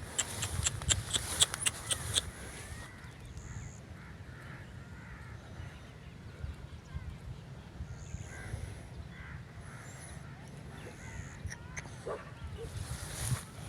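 Scattered outdoor animal calls, with a rapid run of sharp clicks in the first two seconds or so and more calls near the end.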